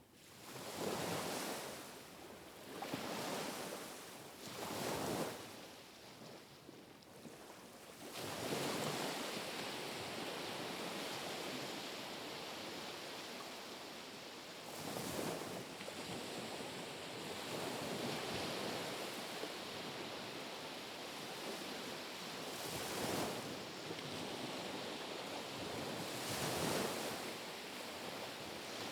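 Small, gentle waves washing ashore in a repeating rhythm, each one a swell of rushing water that rises and falls away. The first few come as separate surges every couple of seconds; from about eight seconds in the wash runs almost continuously, with a louder swell every few seconds.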